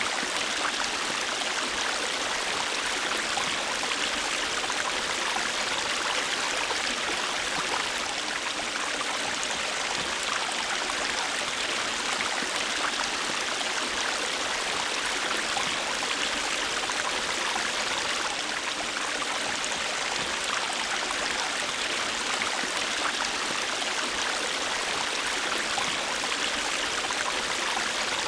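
River water flowing over rocks: a steady, even rush with fine splashing and gurgling and no change in level.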